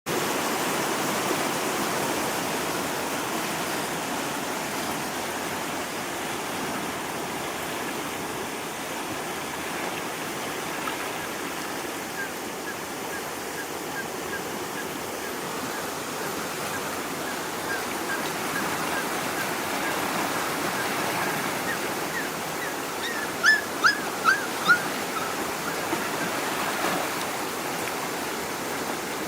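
Rushing floodwater, a steady watery rush, with puppies giving short high cries over it, a few louder ones about three quarters of the way through.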